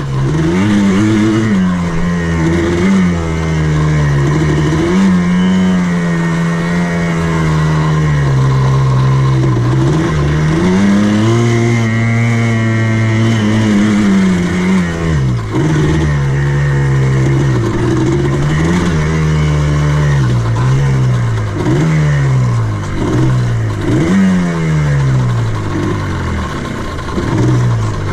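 Buggy (ATV) engine ridden over a dirt course, its revs rising and falling continuously as the throttle is worked on and off, with a few longer held pulls and quick revs in the second half.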